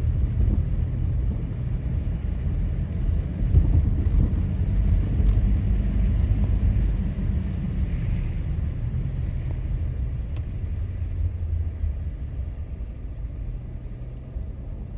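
Car driving, a steady low rumble of engine and road noise that grows quieter in the second half.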